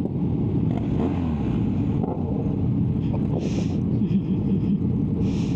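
Yamaha Tracer 900 three-cylinder motorcycle engine running steadily at low road speed in traffic, heard from the rider's microphone, with a couple of short hissing bursts.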